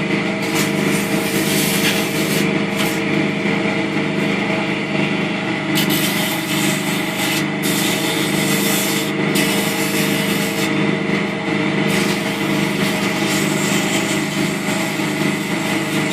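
Wood lathe motor running steadily while sandpaper is held against a spinning oak workpiece, a rough hiss that comes and goes in strokes of a second or few.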